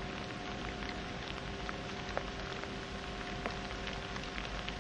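Light rain pattering: many small irregular drop ticks over a steady hiss, with a faint steady hum underneath.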